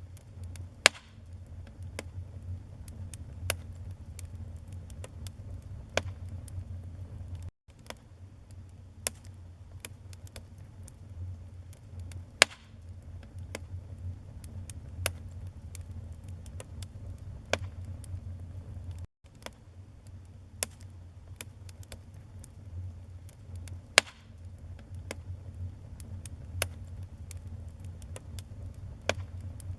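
Wood fire burning in a fireplace: a low steady rumble with irregular crackles and sharp pops from the burning logs, a few of them much louder than the rest. The sound cuts out for an instant twice.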